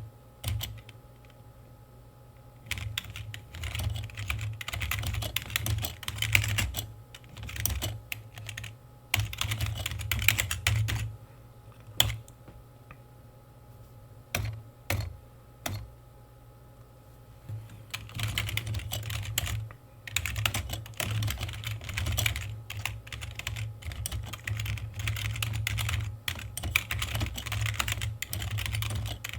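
Typing on a computer keyboard: fast runs of key clicks broken by short pauses, with an occasional single louder key strike.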